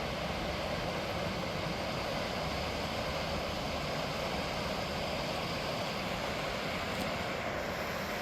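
Steady rush of a swollen, flooded river, an even continuous noise with no breaks.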